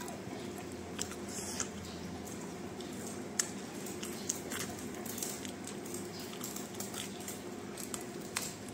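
A man chewing chicken fingers, with scattered sharp wet mouth clicks and smacks, then biting into another piece near the end; a steady low hum runs underneath.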